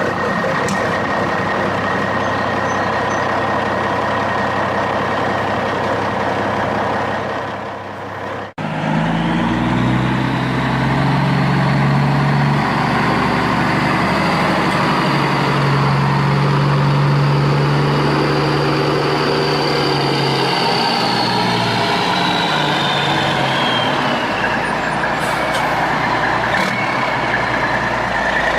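Heavy vehicle engine sound running steadily. It cuts out abruptly about eight seconds in, then comes back louder and deeper, its pitch shifting up and down.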